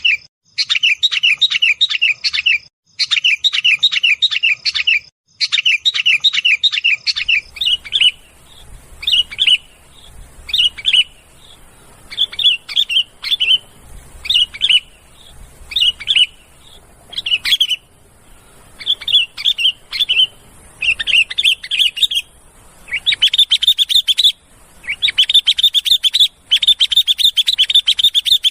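Sooty-headed bulbuls calling: fast chattering runs of repeated notes at first, then separate short phrases about once a second. About two-thirds of the way through, the calls turn into dense, continuous chattering again.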